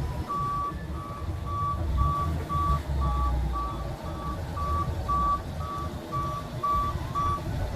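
Vehicle backup alarm beeping steadily, about two beeps a second, over a low engine rumble.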